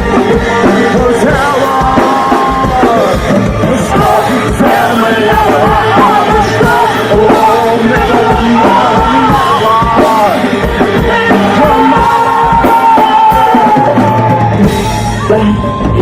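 Live rock music played loud: a band with a drum kit, with singing and a melodic line that bends in pitch over it.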